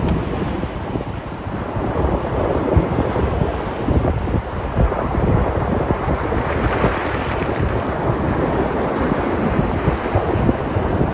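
Sea surf: waves breaking and washing up the shore in a continuous rush, with wind buffeting the microphone. Partway through, a wave breaks and its hiss swells brighter before settling back.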